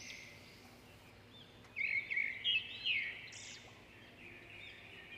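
Small birds chirping: repeated short, arching chirps, with a louder run of several chirps about two seconds in that thins out toward the end.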